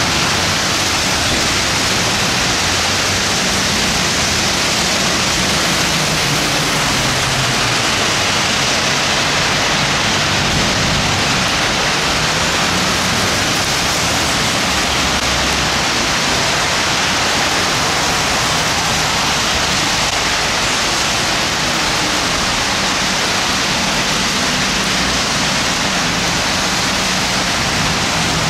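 Steady rain falling, an even loud hiss with a low rumble underneath.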